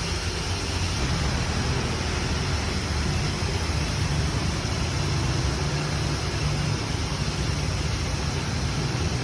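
Steady vehicle noise: a low, even engine-like hum under a broad hiss, with no sudden events.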